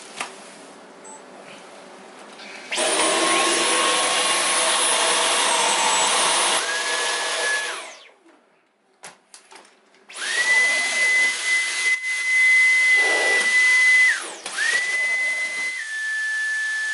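Dyson V11 Animal cordless stick vacuum in boost mode, its Torque Drive floor head on soft carpet, switched on and off in three runs with a high motor whine that steps in pitch. Suction with the head's gate closed is strong enough that the head drags on the carpet.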